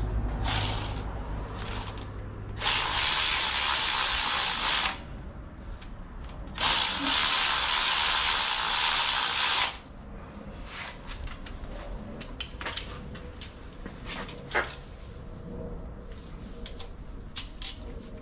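A power tool run in two hissing bursts, the first about two seconds long and the second about three, followed by scattered light clicks and ticks of hand tools.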